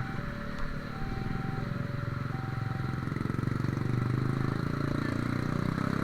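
Railway level-crossing warning alarm sounding two alternating tones, high then low, each held under a second, fading away after about three seconds. Underneath is the low rumble of running engines, growing a little louder toward the end.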